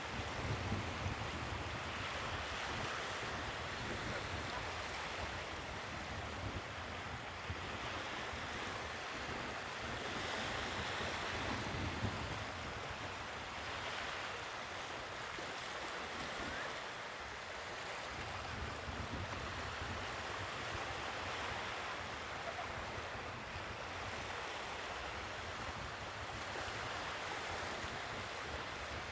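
Sea waves breaking and washing on the shore, a continuous surf noise that swells and eases, with some wind buffeting the microphone.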